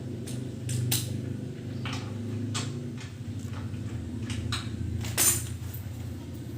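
Metal parts and hand tools clinking and knocking, a dozen or so sharp taps, over a steady low hum.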